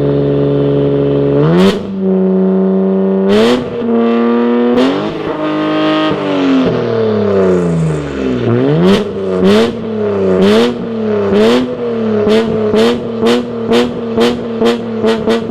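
Toyota 1JZ-GTE twin-turbo straight-six on a straight-piped dual exhaust, pulling up through the revs three times with a sharp break as the pitch drops at each change. It then winds down in a long falling note, followed by a series of short rev blips. Near the end come rapid regular sharp strokes over a steady note.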